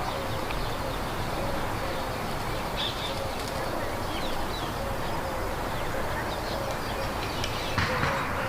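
Small birds chirping in short, scattered calls over a steady background hiss, with a faint low note repeating about twice a second.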